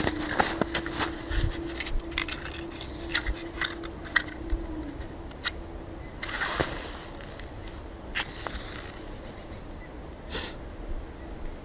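Dry twigs and leaf litter crackling and snapping as they are handled: a run of sharp clicks in the first five seconds, a brushing swish about six and a half seconds in, then a few more snaps. A steady low hum fades out about five seconds in.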